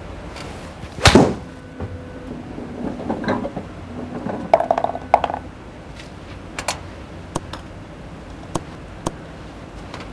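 A golf club striking a ball once with a sharp crack about a second in, followed by light clattering and a few small separate clicks.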